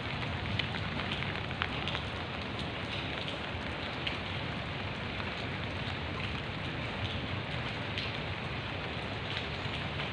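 Steady rain falling on leafy garden shrubs, an even hiss with scattered sharper ticks of single drops hitting leaves.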